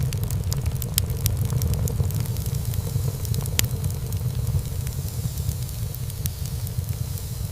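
Wood fire burning in a fireplace: a steady low rumble of flames with frequent sharp crackles and pops of burning wood, one pop louder than the rest about halfway through.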